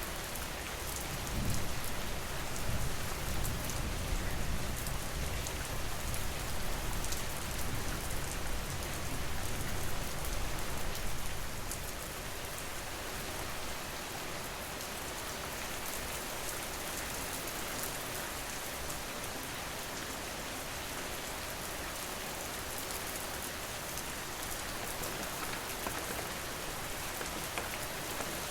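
Steady rain falling, with a low rumble underneath during roughly the first ten seconds.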